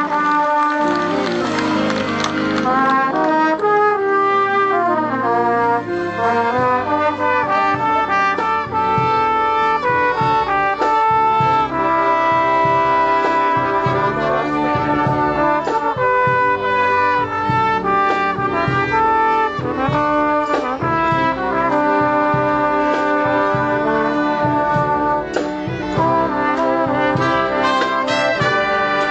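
College band's brass section playing a lively tune, with trumpets and trombones leading.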